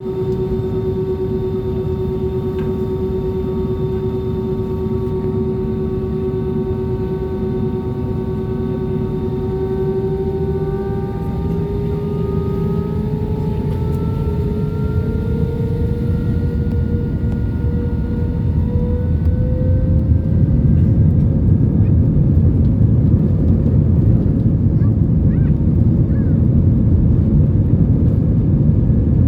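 Jet airliner engines spooling up for takeoff: a steady whine with overtones rises in pitch from about eleven seconds in, while a low rumble swells and is loudest from about twenty seconds on.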